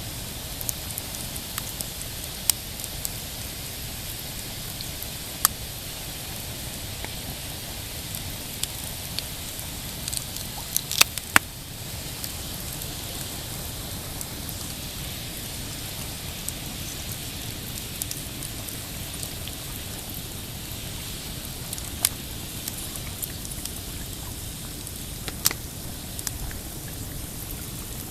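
Pine campfire crackling: scattered sharp pops and snaps over a steady rushing hiss, with a cluster of the loudest snaps about eleven seconds in.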